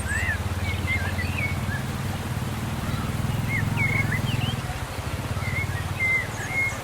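A low buzzing drone, most likely bees, that drops off about five seconds in, with small birds chirping in short rising and falling calls throughout.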